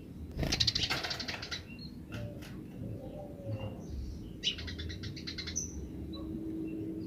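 Eurasian tree sparrows giving their fast rattling 'grece' chatter. There are two bursts of rapid chirps, one about half a second in and one past the middle, with scattered single chirps between them.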